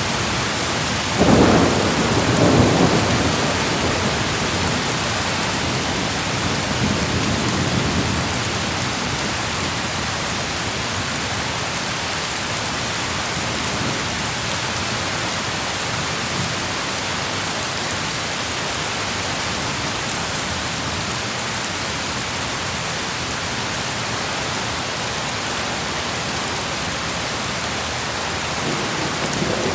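Steady heavy rain with a crack and rumble of thunder about a second in that rolls away over several seconds, and a fainter roll of thunder a few seconds later.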